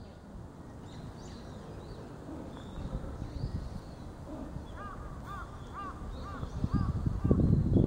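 Birds calling outdoors: faint high chirps early on, then a quick run of about six repeated calls about five seconds in. A low, irregular rumble grows loud near the end.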